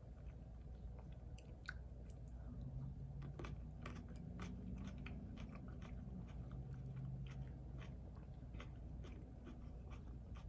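A person chewing food close to the microphone: irregular wet mouth clicks with some crunching. A low steady hum comes in twice in the middle.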